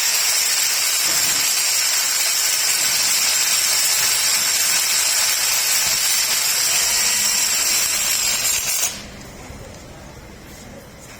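Loud, steady hiss of rushing air or spray that cuts off sharply about nine seconds in.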